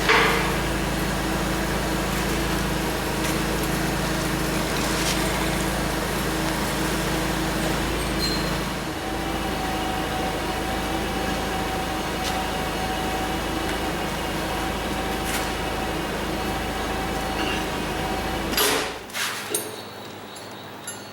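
Steady mechanical hum with a few knocks, which cuts off suddenly near the end.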